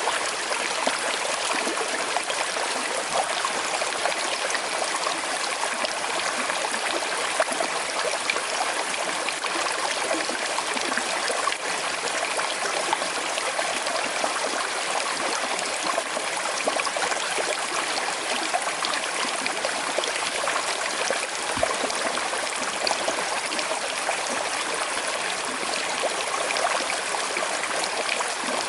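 Small river flowing with a slight current: a steady rush of water with trickling and gurgling over stones. A brief soft low thump about three quarters of the way through.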